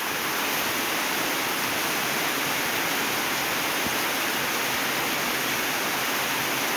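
Heavy rain pouring steadily on the roof, an even hiss that holds at one level throughout.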